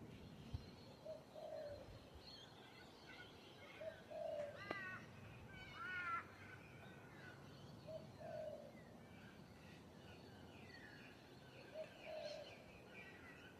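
Several birds calling, faintly: a low two-note call repeats about every four seconds, two louder harsh calls come near the middle, and a thin chatter of higher bird notes runs underneath.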